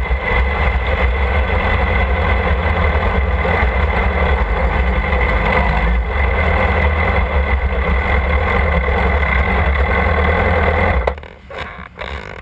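Motorcycle engine running steadily, without revving, then cutting off abruptly near the end.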